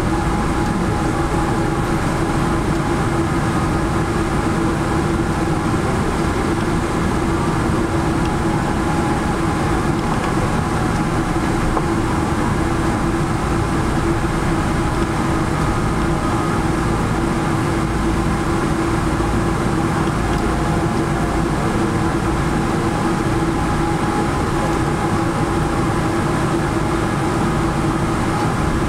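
Steady cabin noise inside a Boeing 777-300 airliner on the ground after landing, with the engines and air conditioning running as an even rumble and a steady hum underneath.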